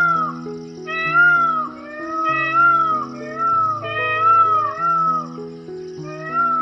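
Domestic cat meowing repeatedly, roughly one arched meow a second, over background music.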